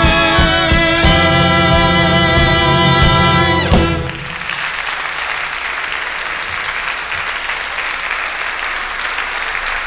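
Orchestra with brass holds the song's final chord, which ends with a short falling smear about four seconds in. It is followed by steady audience applause.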